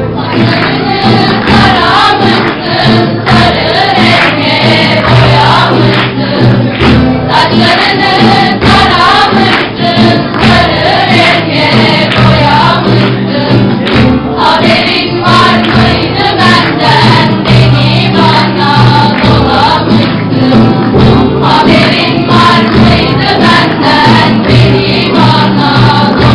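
A choir singing a song together over steady instrumental accompaniment.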